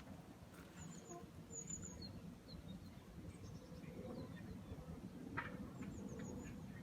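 Faint small-bird chirps: short runs of quick, high notes about a second in and again near the end, over a steady low background rumble, with a single sharp click about five seconds in.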